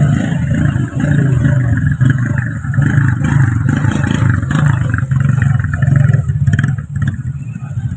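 Truck engine running loud and steady, easing off briefly near the end.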